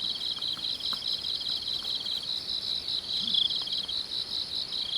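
Crickets chirping: several overlapping high, rapid pulsing trills in a steady insect chorus.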